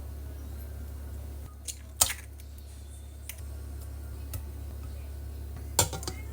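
A few sharp clicks and knocks of small objects being handled, the loudest about two seconds in and near the end, over a steady low hum.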